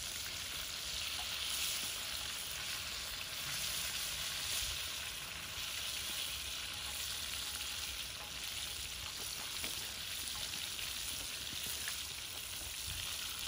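Chicken drumsticks deep-frying in hot oil in a cast iron skillet: a steady, even sizzle of bubbling oil.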